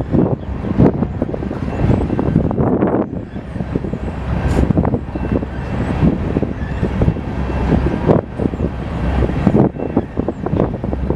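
BNSF train rolling past: a steady low rumble with frequent irregular clanks and knocks from the wheels and cars.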